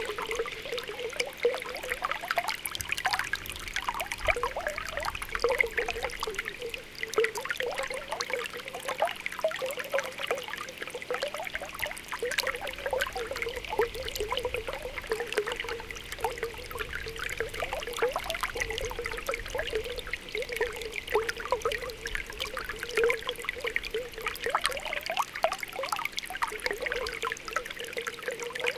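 Spring water welling up from the ground, bubbling and popping continuously with a steady trickle.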